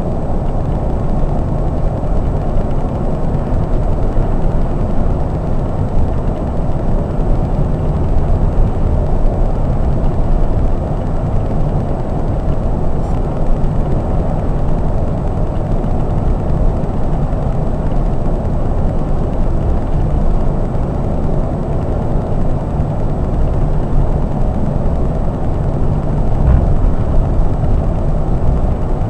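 Scania K420 double-decker coach cruising on the highway: a steady low rumble of engine, tyres and road noise, heard from inside the cab, without gear changes or sudden sounds.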